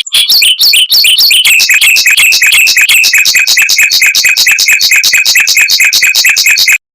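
Mockingbird singing a long, rapid roll: one note repeated about eight or nine times a second at a steady pitch, which cuts off abruptly near the end.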